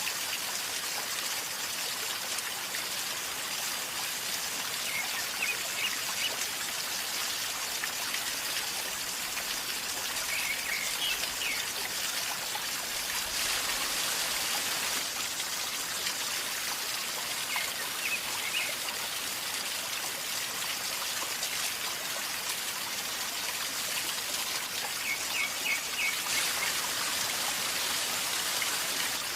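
A calmly flowing river gurgling steadily, with a bird chirping briefly four times.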